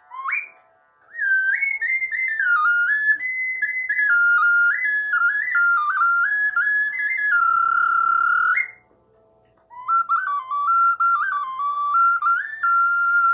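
Background music: a flute plays a slow stepping melody in two long phrases, with a short break about nine seconds in, over soft held notes underneath.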